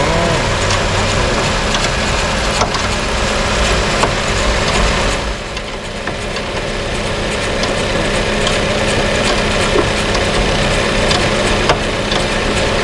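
Car engine idling steadily, with scattered clicks and knocks of work around it; the sound becomes duller and a little quieter about five seconds in.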